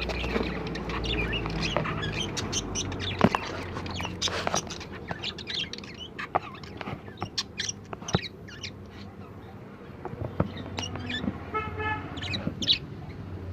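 Lovebirds chirping in many short, sharp calls with scattered clicks, over a low steady hum that fades after the first few seconds; near the end a longer held tone sounds for under a second.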